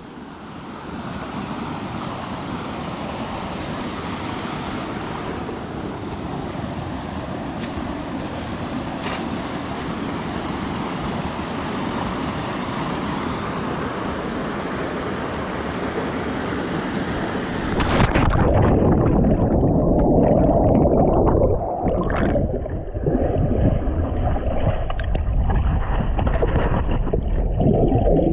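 Steady rush of river water. About two-thirds of the way through, the sound abruptly turns muffled and louder at the low end, an underwater rumble as the microphone goes under the water for a dip.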